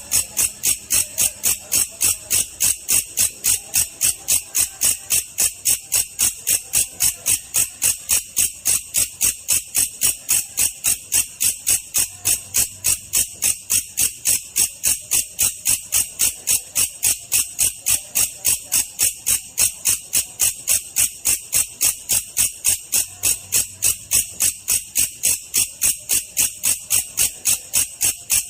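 Belalang kecek katydid calling: a steady, evenly paced train of sharp, high-pitched chirps, about three a second.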